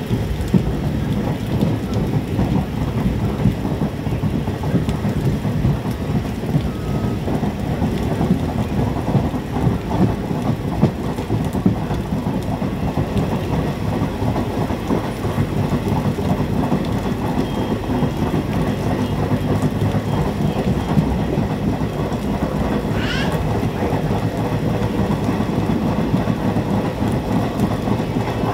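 Train running through heavy rain, heard from inside the coach: a steady low rumble of wheels on the track mixed with the hiss of rain. A brief rising squeak comes about four-fifths of the way through.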